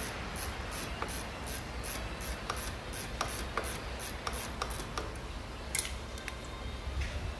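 Hand ratchet working a bolt, its pawl rasping on each back-stroke about three times a second, followed by a longer rasp and a few scattered clicks.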